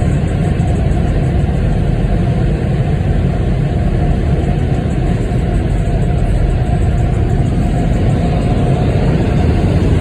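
Steady low rumble heard from inside a car's cabin in an automatic car wash, with no changes or breaks.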